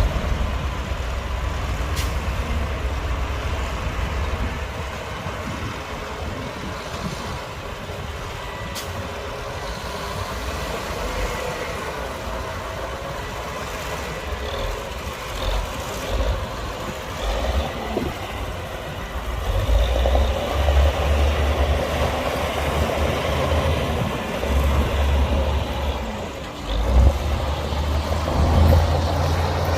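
Heavy diesel earthmoving machinery running, a bulldozer working alongside dump trucks: a steady low engine rumble that grows louder and rises and falls in the second half, with two sharp clicks, one about two seconds in and one about nine seconds in.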